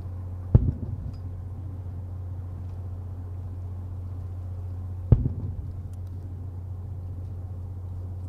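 Two fireworks shells bursting, each a sharp boom followed by rolling echo, about four and a half seconds apart, over a steady low hum.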